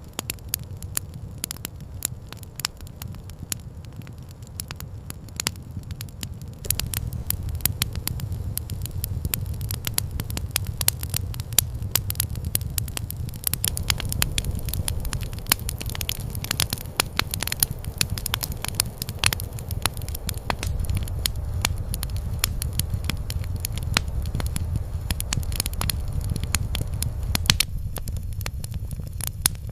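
Campfire crackling: a dense run of sharp pops and snaps over a steady low rumble, growing busier and louder about six or seven seconds in.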